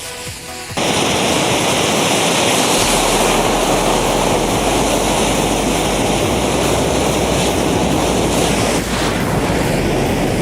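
Steady rushing roar of a large mass of matchsticks burning, starting suddenly about a second in.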